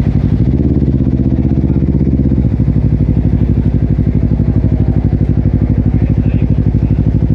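Honda CBR250RR's parallel-twin engine through a Yoshimura exhaust, running loud and steady at a constant low speed with a pulsing beat. It starts and cuts off abruptly, with a slight shift in pitch about two and a half seconds in.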